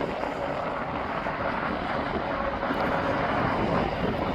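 Steady rushing noise of jet aircraft engines across the airport, swelling slightly near the end.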